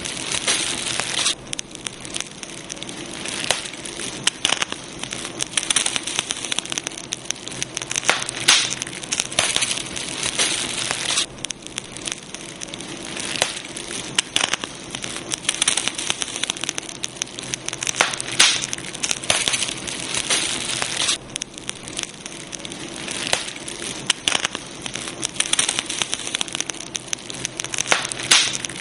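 Campfire burning steadily, wood crackling and popping irregularly over a constant hiss, with short spells of denser crackling.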